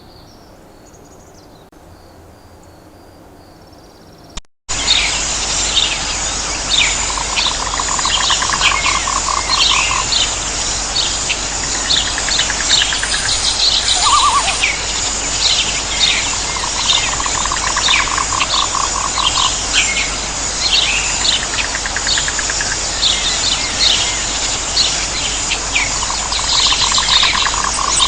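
Quiet outdoor ambience with faint bird calls, then an abrupt cut about four and a half seconds in to a louder nature bed: many short repeated bird chirps over a steady insect hiss, with a few trills lasting a couple of seconds each.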